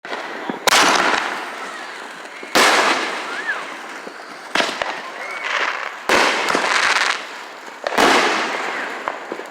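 Fireworks going off: five loud bangs roughly two seconds apart, each trailing off in a long echoing rumble, with a few smaller pops in between.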